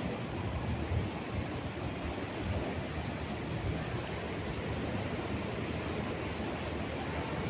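Steady monsoon rain falling as a continuous hiss, with gusts of wind buffeting the microphone.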